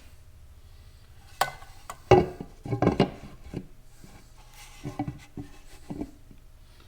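Scattered metal clanks, knocks and scrapes as a Corvair engine's oil pan is handled, lifted off and set back on around the oil pickup tube.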